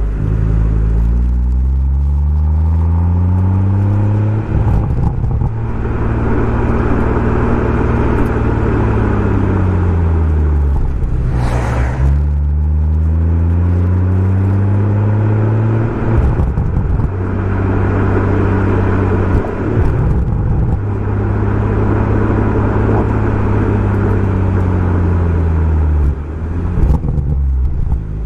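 BMW M140i's turbocharged inline-six running through a Remus aftermarket exhaust while pulling through the gears: the engine note rises under acceleration, then drops at each gear change, several times over. Brief crackles come from the exhaust around the shifts.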